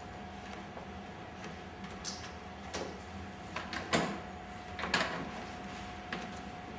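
Plastic snap plugs being pushed into the holes of injection-moulded plastic panels and the panels being handled: a handful of scattered clicks and knocks, the loudest about four and five seconds in, over a faint steady hum.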